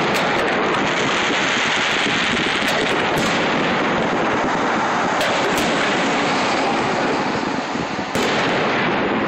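Fireworks display: aerial shells bursting in quick succession, a continuous din of bangs with sharper reports standing out, a cluster about three seconds in and one more near the end.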